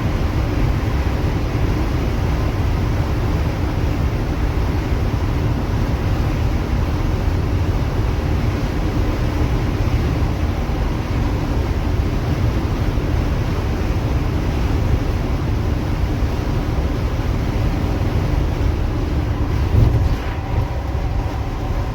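Bus with a freshly rebuilt diesel engine running steadily at highway speed: a continuous low drone with road noise. A brief louder knock about 20 seconds in.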